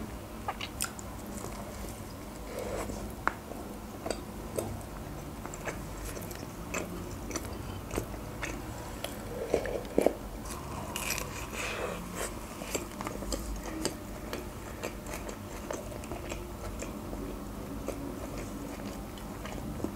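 Close-miked eating sounds: biting into and chewing a soft homemade burger, with many small wet clicks and smacks of the mouth.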